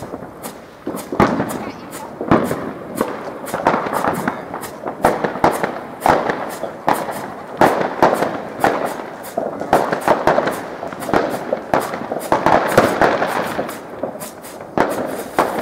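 Many fireworks and firecrackers going off in quick succession: a near-continuous barrage of sharp bangs and crackle, several a second.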